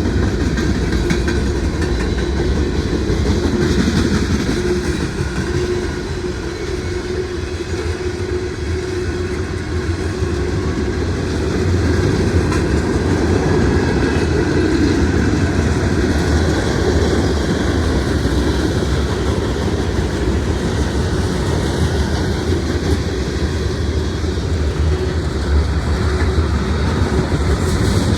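Norfolk Southern mixed freight train rolling steadily past, its cars' wheels clacking over the rail joints over a continuous low rumble.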